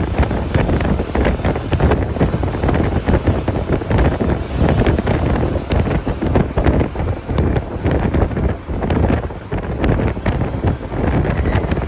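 Wind buffeting the microphone: a loud, continuous rumble with rapid irregular flutter.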